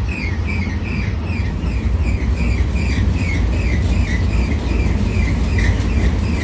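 Diesel freight locomotives running with a steady low drone, and a chirping insect repeating short high chirps about two or three times a second.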